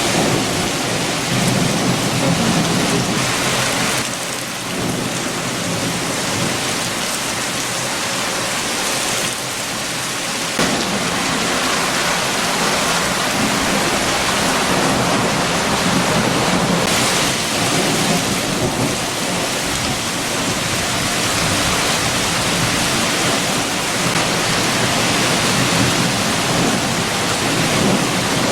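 Heavy rain and strong wind, a dense, steady hiss with a low rumble underneath, easing briefly about four and ten seconds in.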